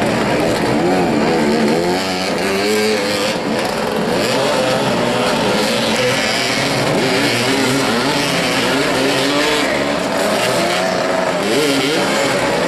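Several motoball motorcycles' engines revving up and down, their pitches rising and falling over one another as the riders accelerate and ease off.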